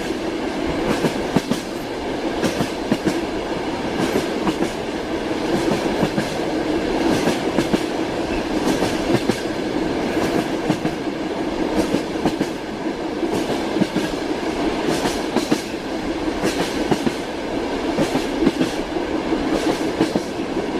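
Train wheels clacking over rail joints, heard from inside a moving railway carriage: a steady running noise with sharp clacks repeating about once or twice a second.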